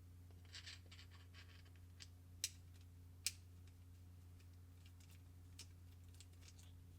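Quiet handling of packaging and small parts: a short scratchy rustle about half a second in, then two sharp clicks under a second apart, followed by a few faint ticks, over a low steady hum.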